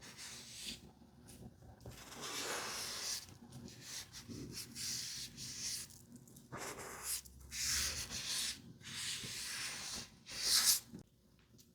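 Makeup being worked onto a mannequin's plastic face in a series of rubbing, brushing strokes, each lasting up to about a second, with a sharper hissing stroke near the end.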